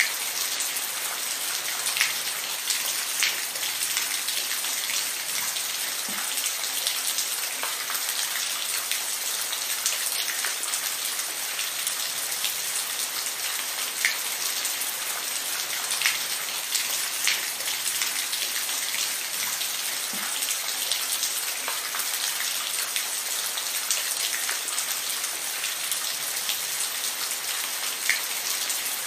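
Steady rain falling in an even hiss, with individual heavier drops ticking sharply every second or two.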